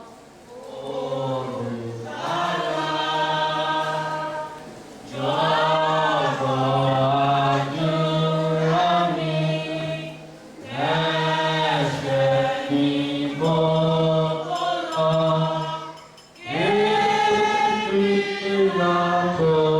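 A congregation singing a gospel song together, unaccompanied, in phrases of held notes with short pauses between them.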